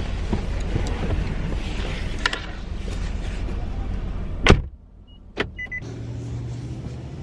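Steady car rumble and road-type noise, cut off by a loud thump about four and a half seconds in, like a car door shutting. After it the sound is much quieter, with a click, two short high electronic beeps and a low steady hum.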